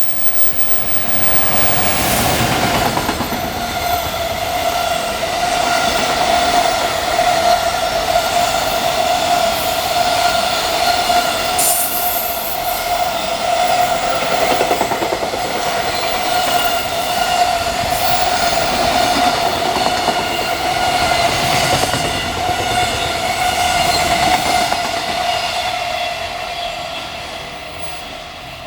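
Freight train running past: the steady rumble and clatter of the wagons on the rails, with a steady high ringing tone over it. It builds over the first few seconds and fades near the end, with a sharp click about twelve seconds in.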